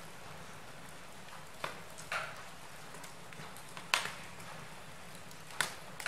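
Wood fire burning in a fireplace: a steady low hiss broken by four sharp crackling pops, the loudest about four seconds in.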